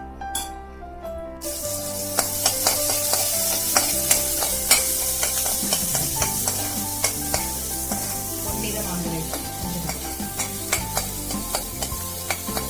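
Food frying in hot oil in a pan: a sizzle starts suddenly about a second and a half in and keeps going while a spatula stirs and scrapes, with frequent sharp clicks against the pan.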